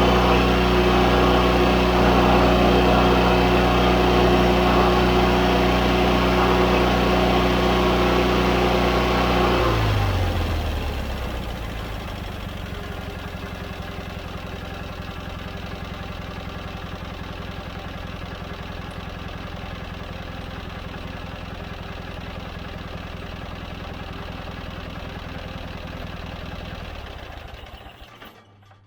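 John Deere 317 riding mower's engine running at high throttle, then throttled down about ten seconds in, its pitch dropping to a steady idle, and shut off near the end.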